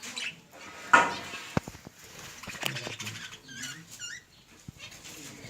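Budgerigars chirping in short rising and falling calls, with a sudden loud sharp sound about a second in and a few light knocks and scratches.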